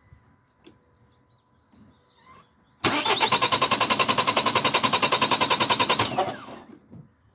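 2011 Ford Focus diesel engine being cranked by its starter for about three seconds in a fast, even rhythm, then stopping without running on. It fails to start because the broken fuel pump gives it no fuel supply.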